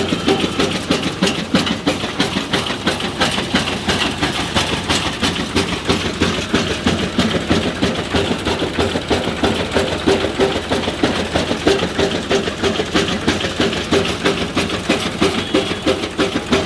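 Powertrac Euro 50 tractor's diesel engine running steadily, with an even pulsing beat of two to three pulses a second, powering a fodder chaff cutter.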